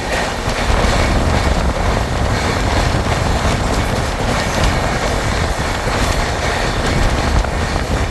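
Train running at speed on the rails: a loud, steady rumble of wheels on track.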